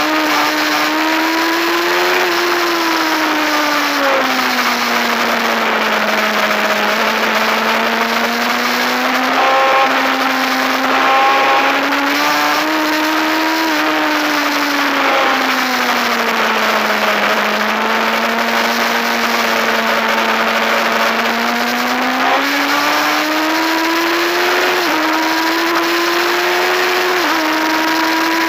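Racing motorcycle engine heard on board at speed over steady wind rush. The engine note sinks as the bike slows for corners and climbs again under power, with a few abrupt drops in pitch at upshifts, most of them near the end.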